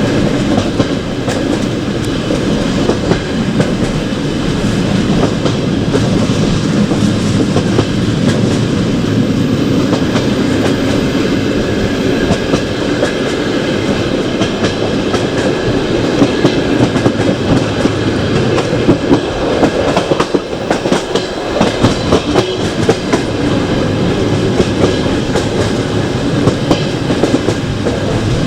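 Passenger train carriage running along the track: a steady rumble of wheels on rail, with frequent sharp clicks and the clickety-clack of wheels passing over rail joints.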